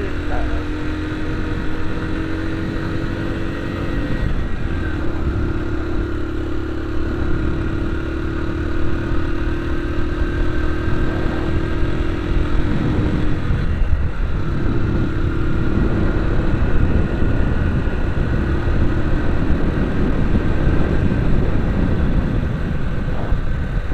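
Vehicle engine running steadily under way, its note shifting a little, over a heavy low rumble of road and wind noise.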